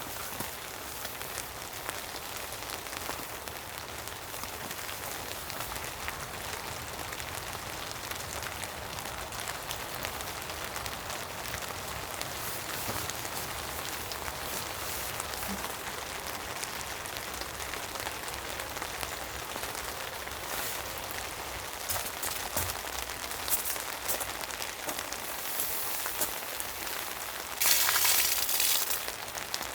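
Steady rain falling, a continuous hiss with scattered drop ticks, and a louder burst of hiss for about a second near the end.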